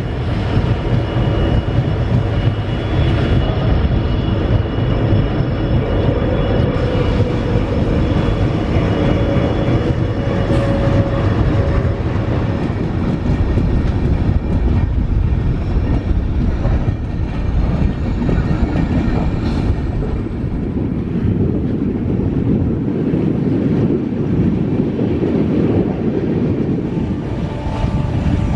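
Rajdhani Express passenger train running on the line: a steady, continuous noise of the coaches travelling over the track.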